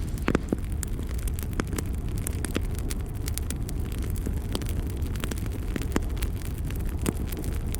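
Wood fire in a fireplace crackling, with frequent sharp pops and snaps over a steady low rumble of the burning.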